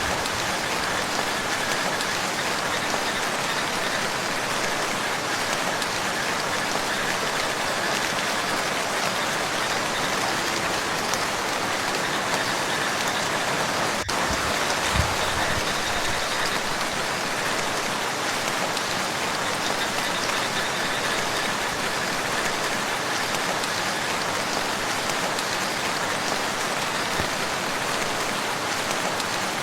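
Steady rain falling on a lake, an even, dense hiss of drops hitting the water, with a short low thump about halfway through.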